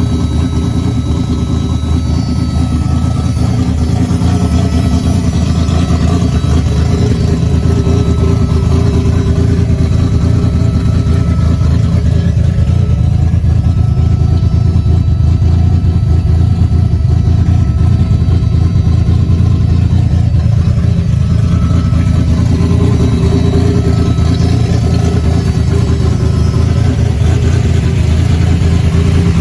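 Newly built Stage 2 Buick V6 racing engine running steadily at idle, loud and even.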